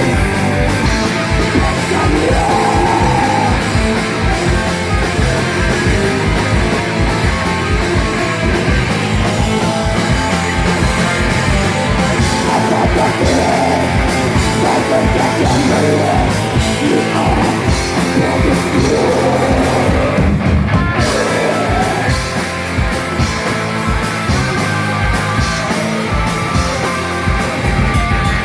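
Live heavy metal band playing loud and steady: distorted electric guitars over fast, dense kick-drum strikes, with yelled vocals.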